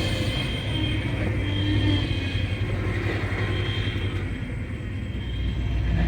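Truck engine running steadily in a low gear as the truck creeps across a field, with a continuous low rumble.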